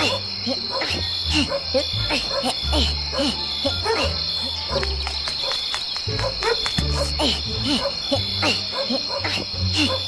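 Crickets and other insects trilling steadily in a high band, over many short, quick chirping calls and a low hum that comes and goes.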